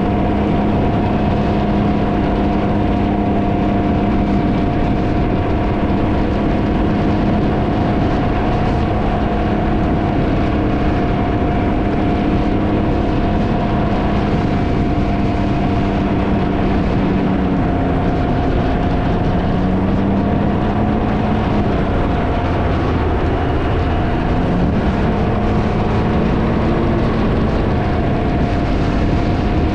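Can-Am Ryker engine running under way with heavy wind noise rushing over the microphone. The engine note holds steady, then dips and climbs back a couple of times in the second half.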